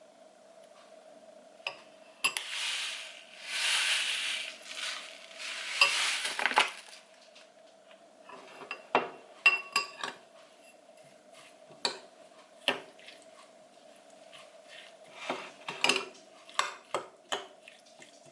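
Kitchen utensils clinking and scraping against dishes and a pan, with a stretch of hissy, sizzle-like noise from about two to seven seconds in. A steady hum runs underneath.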